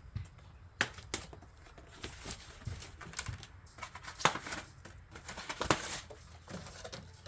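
Packaging being pulled off and handled: irregular clicks, snaps and rustles, with the sharpest snap a little past the middle.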